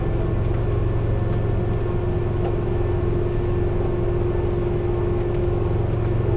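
Hankyu Railway electric train running at a steady speed: an even rumble with a steady held hum over it.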